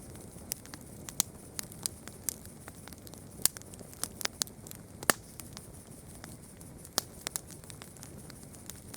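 Campfire crackling: irregular sharp pops and snaps of burning wood over a soft low hiss, with one louder pop about five seconds in.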